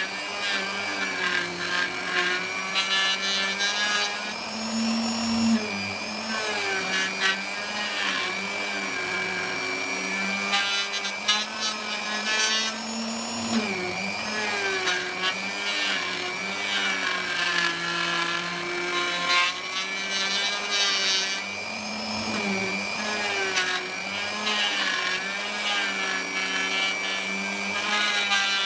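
Electric router cutting slots in teak. The motor's pitch dips and recovers again and again as the bit bites into the wood.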